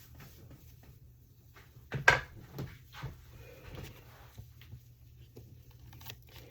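Kitchen handling noises: one sharp knock about two seconds in, followed by a few lighter clicks and taps, over a low steady hum.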